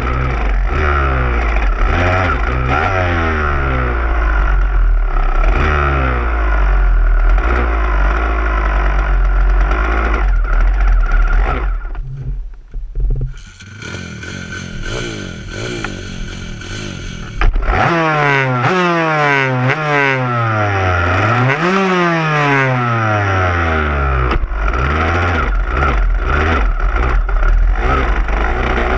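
Single-cylinder dirt bike engine revving up and down again and again, its pitch rising and falling repeatedly. About halfway through it goes quieter for several seconds, then suddenly comes back loud and keeps revving.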